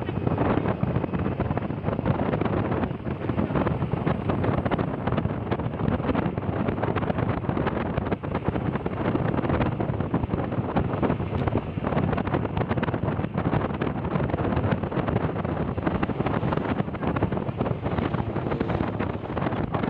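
Steady wind rushing and buffeting against the microphone, with the running noise of a moving vehicle underneath.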